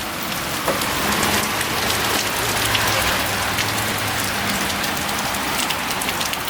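Steady rain falling and pattering on surfaces, with many small sharp drop ticks. A faint low hum runs under it for a few seconds partway through.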